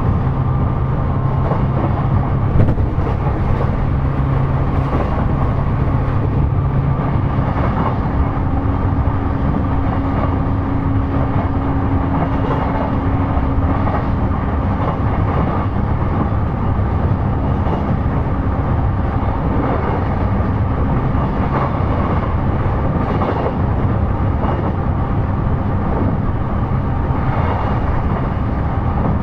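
JR East E233 series electric commuter train running along the line: a steady rumble of wheels on rail, with a low hum that fades out in the first several seconds.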